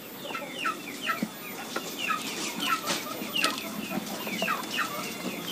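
Birds chirping repeatedly: short calls, each sliding downward in pitch, about two or three a second. A few light clicks and knocks come from the wire cage as it is handled.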